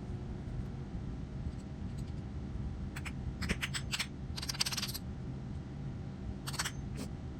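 Light metallic clinks and scrapes of tools or small metal parts being handled, in two short clusters, over a steady low hum.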